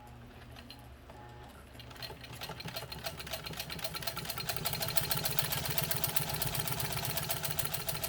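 Singer 15 sewing machine stitching through a single layer of leather, running softly at first and then, about two seconds in, picking up to a fast, even stitching rhythm that holds steady.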